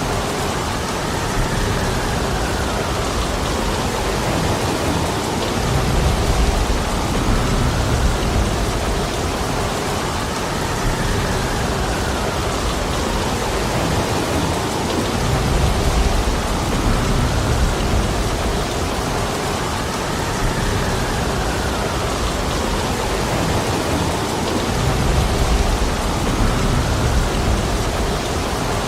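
Heavy rain falling steadily, with a low rumble swelling up every ten seconds or so.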